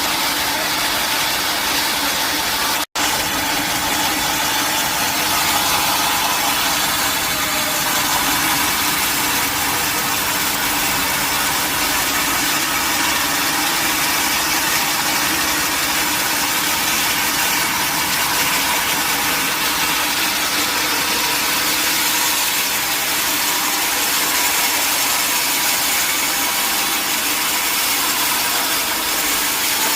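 Sawmill machinery running with a steady, even mechanical noise, broken by a momentary dropout about three seconds in.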